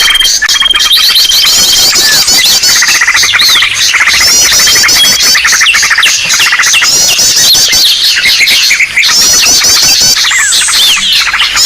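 Bird-lure recording of many small birds calling at once: a loud, dense chatter of chirps, squawks and rapid repeating trills, with a held high whistle near the start.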